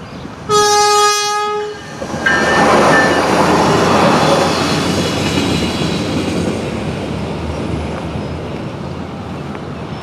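A train sounds one short horn blast about half a second in. It then rolls through the crossing, loudest a few seconds in and slowly fading as it goes by.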